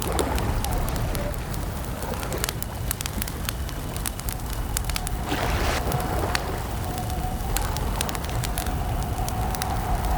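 Wood campfire crackling, with many sharp irregular pops over a low steady rumble of burning.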